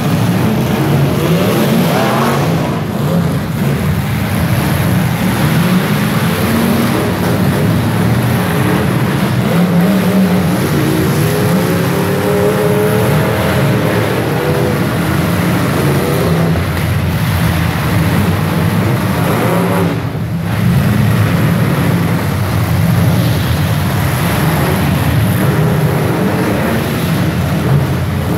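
Several demolition derby cars' engines running and revving together, loud and continuous, with one engine's pitch sweeping up and down in the middle.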